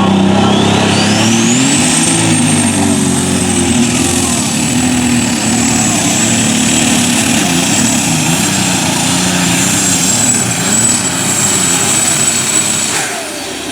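Alcohol-burning super stock pulling tractor engine running at full power. A turbocharger whine climbs steeply in the first two seconds and then holds high and steady over the engine's shifting note. The whine and engine cut off sharply near the end as the engine is shut down.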